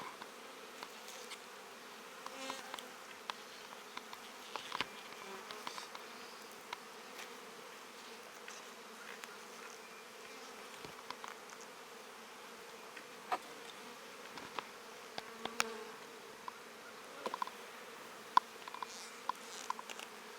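Honeybees buzzing steadily around an open hive during an inspection, a low even hum, with occasional short clicks.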